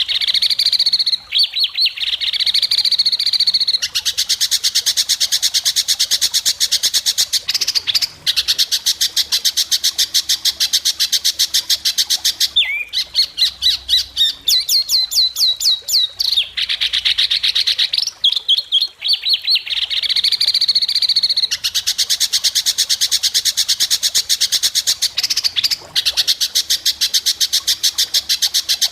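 White-rumped shama (murai batu) singing continuously: long runs of very fast, harsh, high-pitched rattling notes (the sharp 'besetan') alternating with shorter clear whistled phrases, the whistles coming at the start, in the middle and again past two-thirds of the way through.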